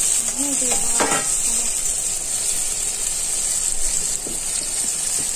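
Chopped onion and tomato frying in hot oil in a kadai, sizzling steadily as a spatula stirs them.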